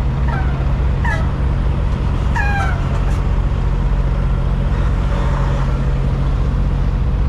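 Semi-truck engine idling with a steady low hum. Three or four short, high squeals that fall in pitch come in the first three seconds.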